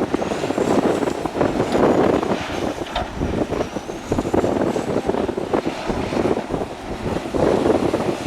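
Matador excavator's diesel engine and hydraulics working under load, the rumble swelling and easing every second or two, with a sharp knock about three seconds in and a faint high whine drifting up and down.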